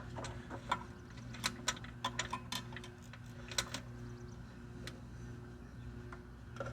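Scattered small clicks and light metallic rattles, irregular and busiest in the first few seconds, as the blade-engagement cable and its fittings on a Toro TimeMaster mower are worked into place by hand, over a steady low hum.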